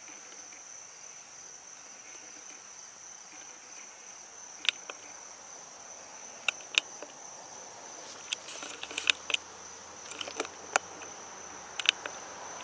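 Steady, high-pitched insect chorus trilling without a break, with scattered sharp clicks and ticks that grow more frequent in the second half.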